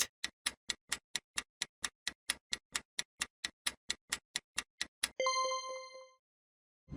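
Countdown-timer sound effect: a clock-like ticking about four times a second for about five seconds, then a single bell-like ding that rings and fades, marking time up.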